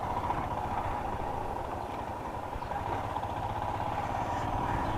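Motorcycle engine running steadily at low speed, a constant low rumble.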